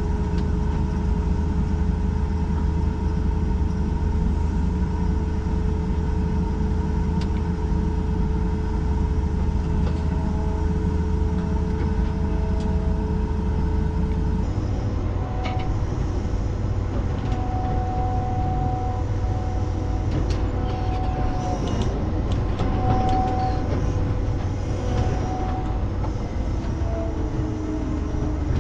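Farm machine engine running steadily, a low drone with a steady whine over it; the whine changes pitch about halfway through.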